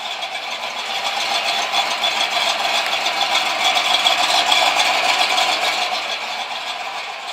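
1988 Mustang GT's 302 small-block Ford V8 idling smoothly at about 800 rpm, growing a little louder around the middle. A steady idle, running well after rewiring.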